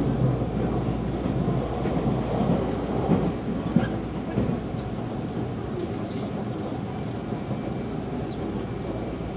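Steady rumble of a JR 373 series electric train running on the track, heard from inside the passenger car, with a sharp knock about four seconds in. The deepest part of the rumble eases off a little about halfway through.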